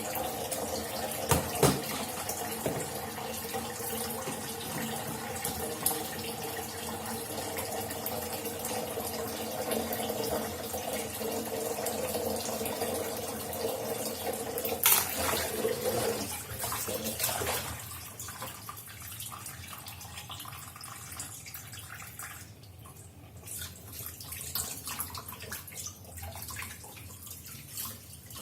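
Kitchen tap running steadily into a sink, with a couple of sharp knocks, one near the start and one about halfway through. The running water cuts back about two-thirds of the way in, leaving quieter splashing and small clatter.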